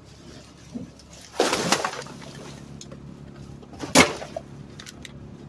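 Garbage truck rear hopper being loaded, with the truck running steadily underneath: a loud rattling crash of trash landing in the hopper about a second and a half in, then a single sharp bang about four seconds in.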